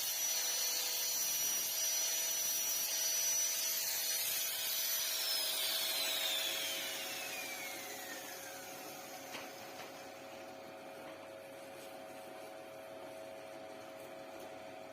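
An electric power tool runs at speed with a high whine, is switched off about five seconds in, and winds down, its pitch falling over a few seconds. A steady electrical hum runs underneath and remains afterwards.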